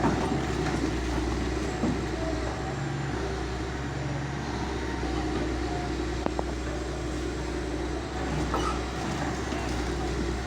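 Diesel engine of a heavy demolition machine running steadily, with a few faint knocks.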